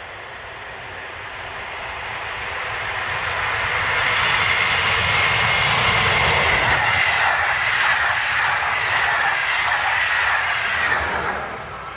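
A train passing at speed on the main line. It swells over about four seconds and stays loud, with a high whine that drops slightly in pitch as it goes by, then fades.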